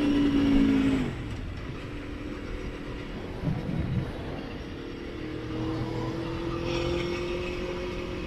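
Motorcycle engine on the move: held at steady revs, then the throttle closes about a second in and the engine drops back. From about five seconds the revs climb slowly again.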